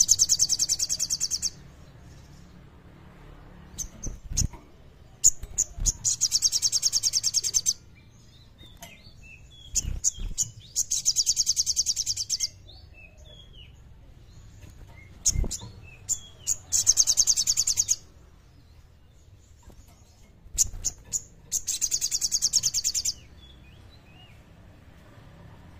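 A sogon songbird singing in repeated bouts. Each bout is a few sharp high notes, then a fast, high, rattling trill lasting about one and a half to two seconds. The bouts come about every five seconds, with a few soft low thumps in between.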